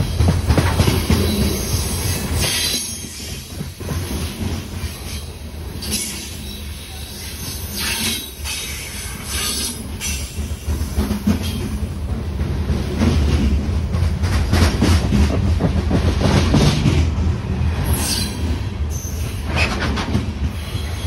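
Freight train's coal cars rolling past close by: a heavy steady rumble of wheels on rail with clicks and knocks, and high wheel squeals now and then.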